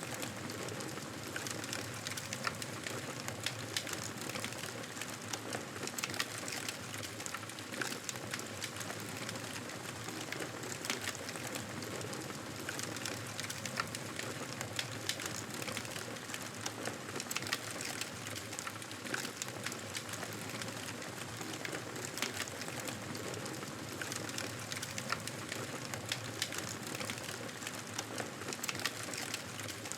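Wood fire crackling in a fireplace, with frequent sharp pops and snaps over a steady hiss.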